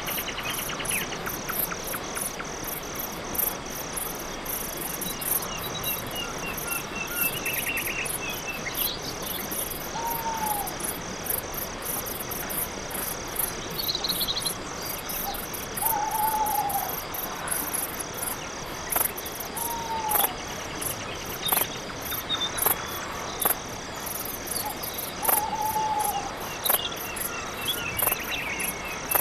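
Night insect chorus: crickets chirping in a steady, evenly repeating pulse. A short, falling call from another animal sounds four times over it.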